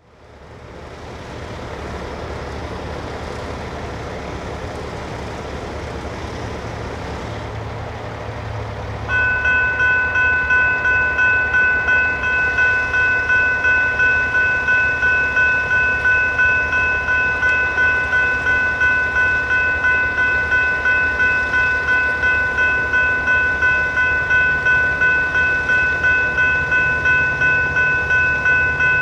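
Electronic railroad crossing bell, a General Signals Type 3, starting about nine seconds in and ringing steadily at about two strokes a second: the crossing has activated for an approaching train. A low rumble runs underneath and grows near the end.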